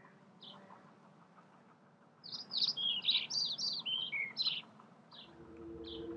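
A small bird chirping: a few single chirps, then a quick run of varied chirps in the middle. Near the end a low, steady music drone fades in underneath.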